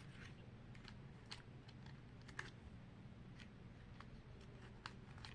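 Faint, irregular light clicks and taps of small plastic toy pieces and packaging being handled.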